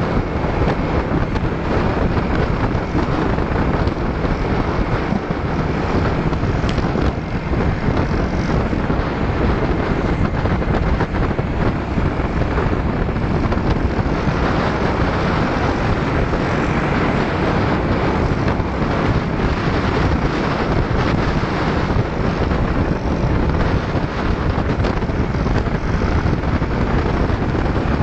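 Steady wind rush on the microphone over the running of motor scooters on the road.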